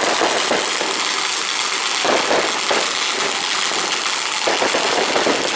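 Original Krakatau (IS2114) firework fountain burning, its spray of sparks giving a loud, steady rushing hiss.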